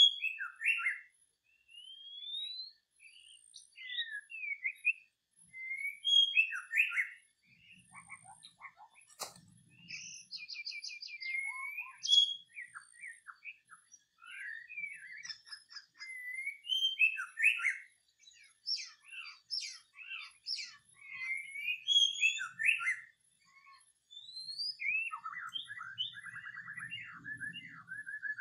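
Songbird singing a varied, rapid string of whistled notes, chirps and short trills, with one sharp click about nine seconds in and a fast rattling trill near the end.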